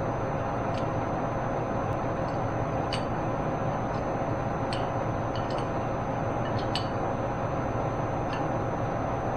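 Steady workshop hum and hiss, with about eight faint light metallic clicks scattered through it.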